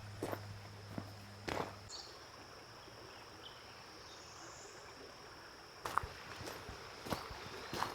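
An insect's steady high-pitched trill over a faint hiss, with a low hum that stops about two seconds in. A few sharp clicks and knocks come early and again near the end.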